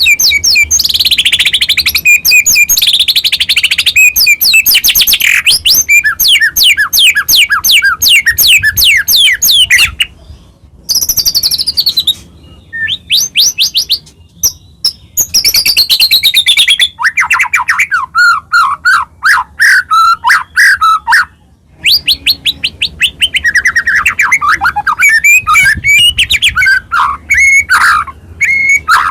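White-rumped shama singing loudly in long bursts of rapid trills and sweeping whistled notes, broken by short pauses.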